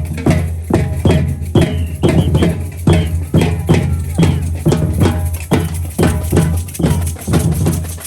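Loud music with drums and hand percussion from the passing parade, keeping a steady beat of about two and a half strikes a second over a constant bass.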